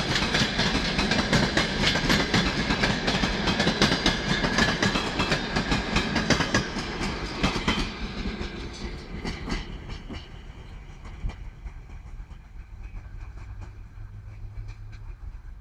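Wheels of a passenger train's coaches clacking over rail joints as the carriages roll past. The clatter fades from about eight seconds in as the end of the train pulls away.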